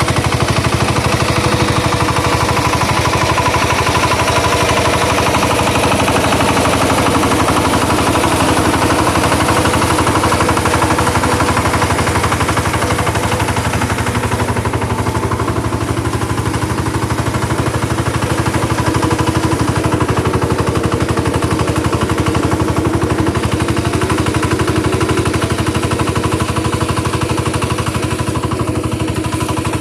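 Engine of a ploughing machine running steadily, with a rapid, even pulse that holds through the whole stretch.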